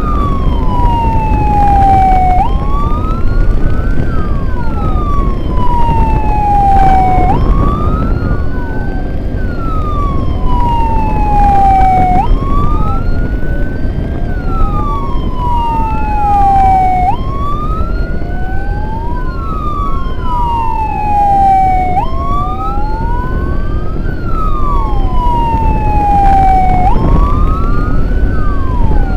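Sirens of an ambulance convoy wailing out of step with each other, each rising and falling in pitch every few seconds, over a steady low rumble of the moving vehicles and wind.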